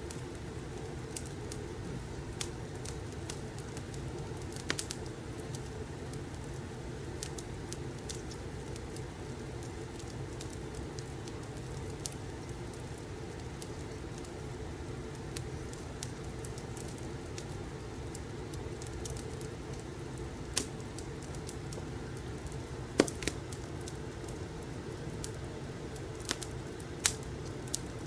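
Fireplace ambience: a steady low rumble of burning logs with scattered sharp crackles and pops, a few louder pops in the last third.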